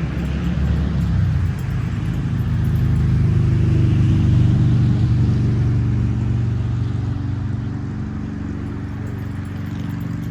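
A motor vehicle's engine running close by, growing louder over the first few seconds and then easing off.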